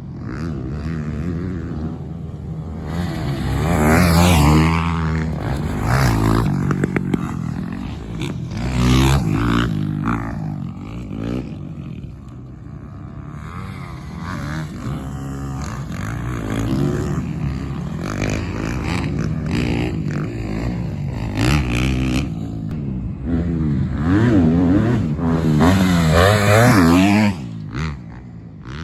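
Motocross dirt bike engine revving up and down through the gears as it is ridden, the pitch climbing and falling over and over, loudest in a few hard pulls.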